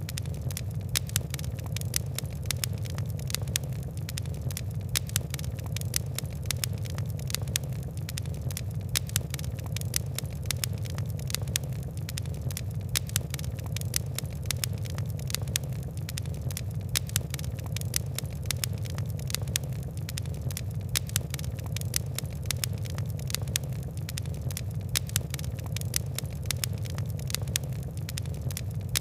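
Fire in a fireplace crackling: a dense run of sharp irregular crackles and louder pops over a steady low rumble.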